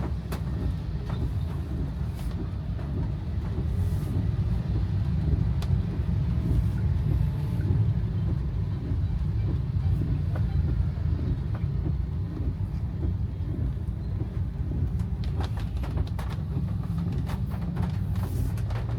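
Car driving, heard as a steady low rumble of engine and road noise, with a scattering of short ticks in the last few seconds.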